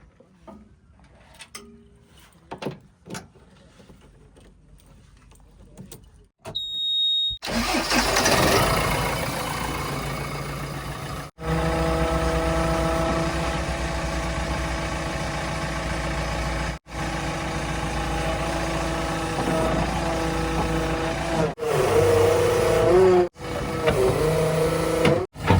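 Scattered light clicks and knocks, then a heavy vehicle's engine starts up loud and runs steadily, cut off briefly several times, and revs up and down a little near the end.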